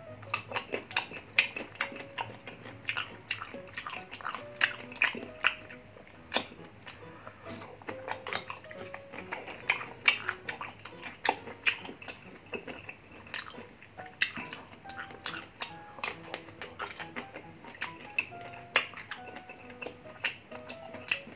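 Close-up crunching and chewing of raw green mango with shrimp paste: many crisp, irregular crunches and wet mouth sounds. Soft background music plays underneath.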